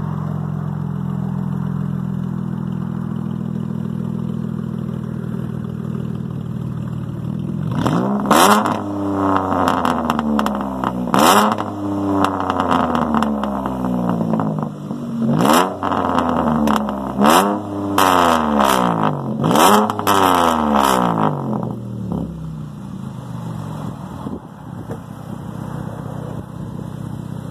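Straight-piped 3.6-litre V6 of a 2015 Chrysler 300, true duals with no mufflers, idling loud. About eight seconds in it is revved in about six quick blips, each rising sharply and dropping back, then it settles to idle again.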